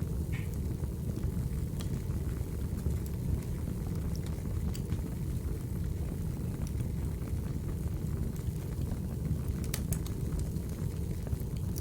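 Wood fire crackling: a steady low rumble of flames with scattered sharp pops, a few close together near the end.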